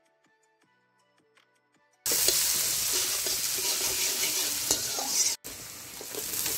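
Near silence for about two seconds, then vegetables sizzling loudly in a hot wok over a wood fire, with a metal spatula scraping and clicking as they are stirred. The sound cuts out briefly about five and a half seconds in, then the sizzling resumes.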